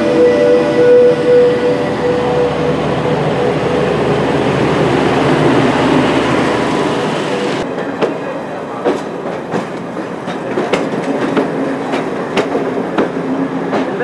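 A diesel locomotive passing close by, its engine running with a steady whine, followed by passenger coaches rolling past with their wheels clacking over rail joints from about halfway on.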